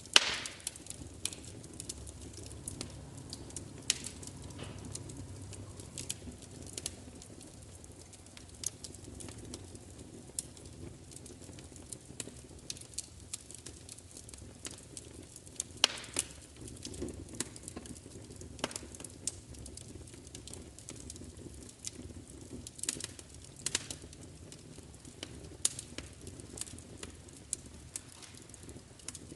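Wood fire crackling: irregular sharp pops and snaps over a steady low background, the loudest pop right at the start.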